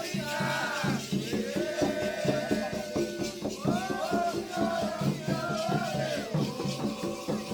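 Candomblé chant for Xangô: voices singing over a steady drum rhythm, with a shaken rattle.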